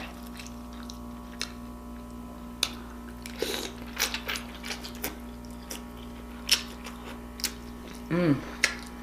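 Mouth sounds of someone eating close to the microphone: scattered sharp lip smacks and chewing clicks over a steady low electrical hum, with a short hummed "mm" about eight seconds in.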